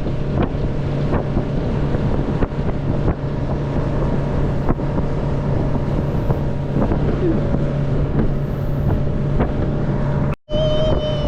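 Motorboat under way: a steady engine drone with wind rushing over the microphone. Near the end the sound cuts out for an instant, then a brief high steady tone sounds over the drone.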